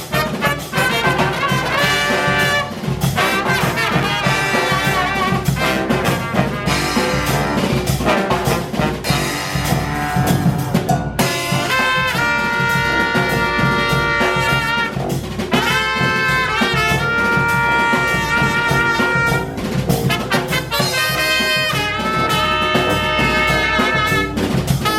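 A live brass band playing a tune, with trumpet and trombone, and long held chords in the second half.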